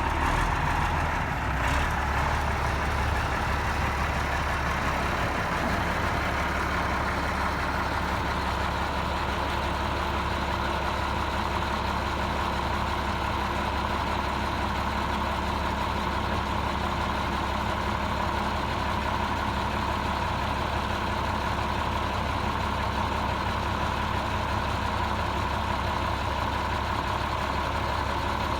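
Ford L8000 grain truck's Ford diesel engine running steadily while its hydraulic hoist raises the all-steel dump bed, with a steady high hum over the engine.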